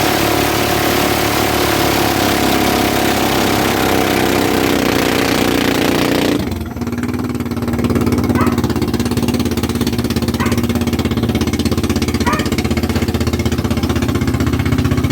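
Motorized outrigger boat's engine running steadily under way. About halfway through, the loud rushing noise over it drops away suddenly and the engine note settles slightly lower.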